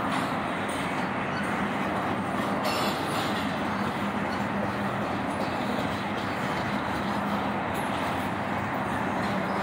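Doublestack intermodal train's container well cars rolling past: a steady noise of steel wheels running on the rails.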